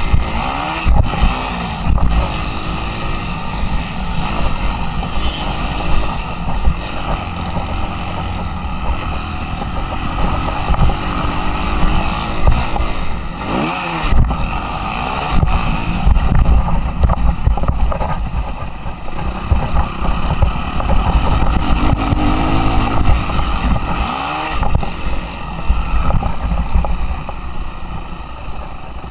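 Suzuki RM-Z 250 four-stroke single-cylinder motocross engine running hard on the track, its pitch rising and falling a few times as the rider works the throttle and gears, under heavy wind buffeting on the action-camera microphone.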